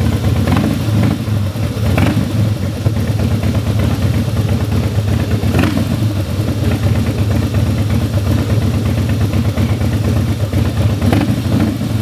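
Harley-Davidson Fat Boy's V-twin engine idling steadily with a deep rumble, with a few brief sharper sounds over it.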